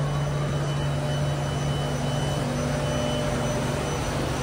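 Steady low hum of metro train equipment, with faint thin high-pitched whines above it and no change in pitch or level.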